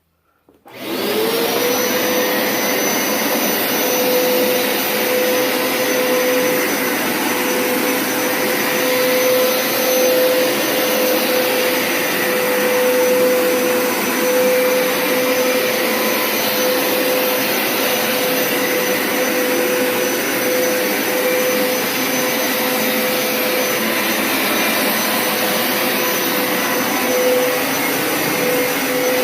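Hoover Power Scrub Deluxe FH50150 carpet washer switching on about a second in, its motor whining up to speed in a moment and then running steadily with a high whine over a loud rushing suction noise, as it rinses the carpet.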